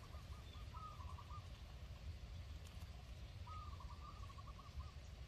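Faint bird call: two short runs of quick repeated notes, about a second in and again midway through, over a low steady rumble.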